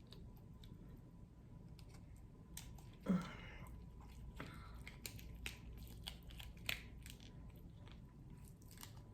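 Faint scattered clicks and cracks of king crab legs being cut open with scissors and handled. A brief louder vocal sound comes about three seconds in.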